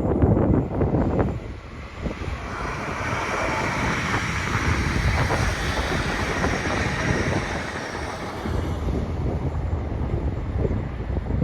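A train passing, its wheel and rail noise swelling to a peak and fading over about seven seconds. Wind buffets the microphone in the first second and again near the end.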